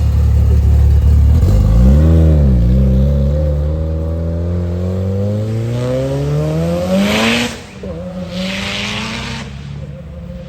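Car engine revving once, then accelerating hard, its pitch climbing steadily for several seconds before dropping with a burst of hiss, followed by a second hiss.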